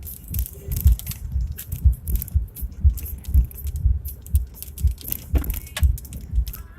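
Car driving over a rough dirt road, inside the cabin: repeated low thumps from the bumps, about two a second, with loose things rattling and clattering.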